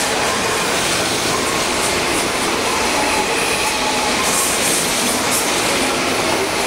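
583 series electric multiple unit passing at close range, its wheels on the rails making a steady, unbroken running noise with faint high tones.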